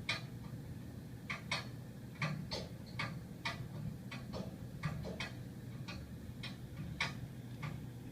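Radiator heating pipes ticking: irregular sharp clicks, about one or two a second, over a faint low hum.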